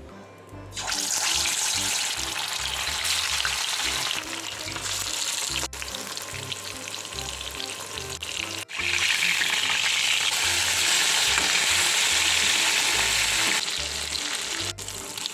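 Marinated fish pieces sizzling in hot oil in a pan, a steady crackling hiss that starts about a second in and breaks off abruptly a few times.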